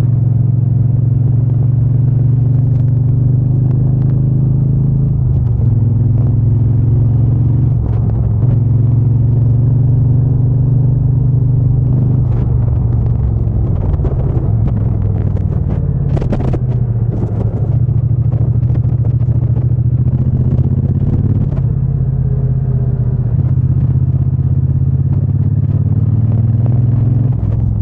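Triumph Bonneville T120's 1200 cc parallel-twin engine and exhaust running steadily while riding. The engine note shifts in pitch a few times and briefly breaks up about halfway through.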